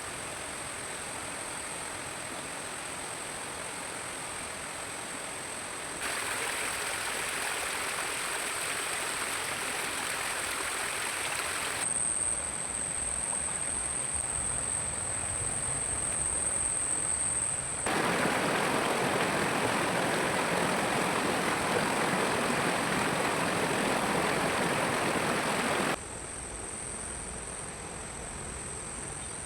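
Forest ambience: a steady rushing noise like flowing stream water, with a steady high insect drone over it. The background changes abruptly several times, louder for a stretch and then quieter again.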